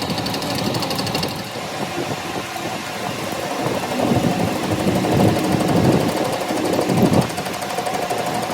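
A workshop power tool running with a fast rattling pulse, its sound going rougher and uneven partway through before settling into a steadier pitched running near the end.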